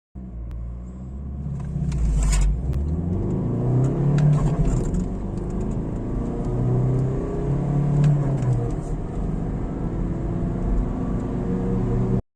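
Audi A3 8P accelerating hard, its engine note rising as it pulls up through the revs, with a short noisy burst about two seconds in.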